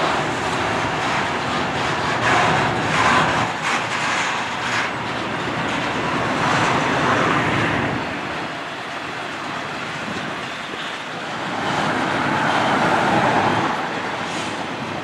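Freight train passing: two GE ES44AC diesel locomotives running, then double-stack container cars rolling by on the rails. The noise swells and eases a few times.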